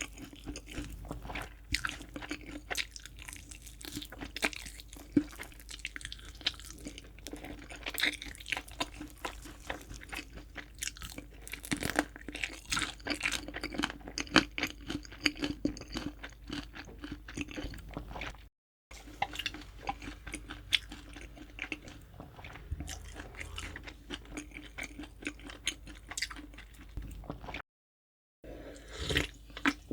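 Close-miked crunching and chewing of crispy fried chicken: a dense run of irregular crackly bites and chews. The sound cuts out completely twice for a moment.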